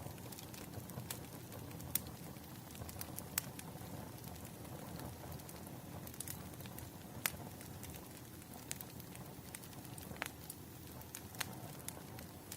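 Wood fire crackling: sharp, irregular pops and snaps every second or so over a soft, steady low rumble.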